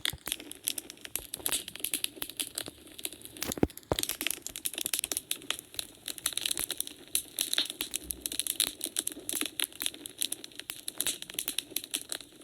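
Wood fire burning in a fireplace: a steady stream of irregular crackles and sharp pops over a low, even hiss of the flames, with one louder pop about three and a half seconds in.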